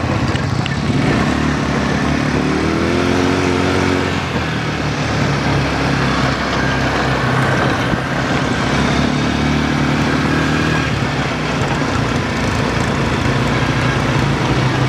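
Quad bike (ATV) engine running while being ridden, its note rising as the rider opens the throttle about a second in and climbing again later on.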